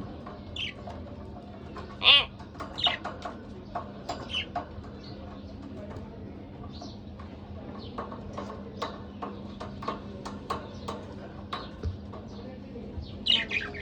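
Budgerigars chirping and chattering. A loud warbled chirp comes about two seconds in, followed by a string of short, quick chirps and clicks, and another burst of chirps near the end.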